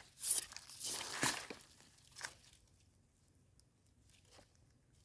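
Rustling and crunching of ground litter being disturbed while termite mushrooms are gathered: a few short bursts in the first two seconds or so, the loudest about a second in, then only faint scattered rustles.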